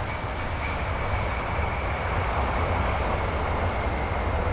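Aircraft engine noise: a steady rumble with a faint high whine held throughout.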